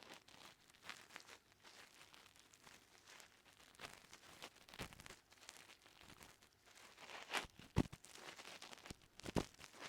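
An ear pick scraping and rasping inside a binaural microphone's ear, in soft irregular strokes with crackling clicks. There are a few sharper scrapes about seven and a half seconds in and again near the end.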